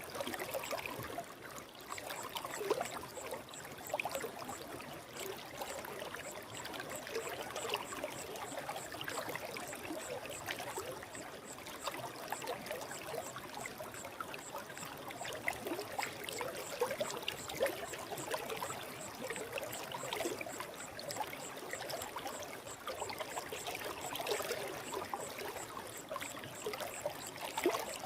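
Stream water flowing over stones, a steady babbling and trickling.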